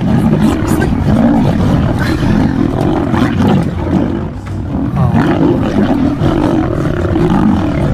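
Lions roaring in a fight, a loud continuous din that eases briefly about four seconds in.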